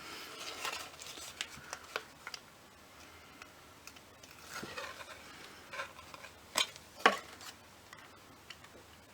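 Card and paper pieces being handled on a craft table: brief rustling and light taps and clicks, with two sharper clicks about two-thirds of the way through.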